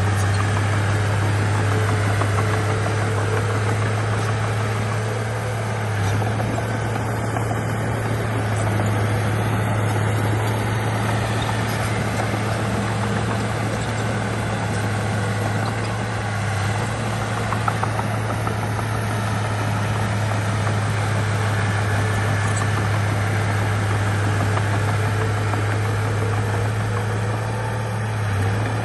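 Heavy diesel engine of earthmoving machinery running steadily with a deep, constant hum and a rough mechanical noise over it.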